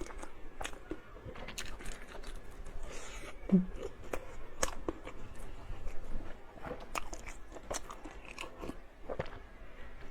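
Close-up eating sounds: a person biting and chewing, with scattered short mouth clicks and smacks and a brief low hum about three and a half seconds in.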